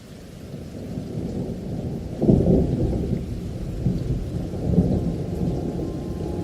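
Thunder rumbling over steady rain, fading in from the start, with a louder roll of thunder about two seconds in.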